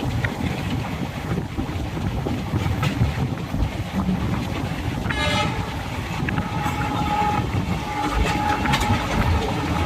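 Indian Railways train running with a steady low rumble of wheels on track. A short horn blast sounds about five seconds in, followed by a longer held horn note lasting a couple of seconds.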